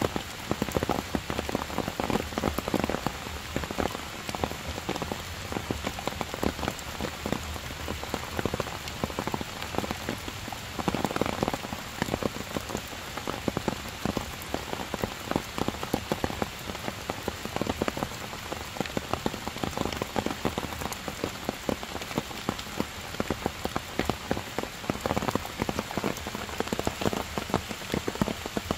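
Heavy rain falling steadily, with a dense scatter of individual drops ticking on stone and leaves.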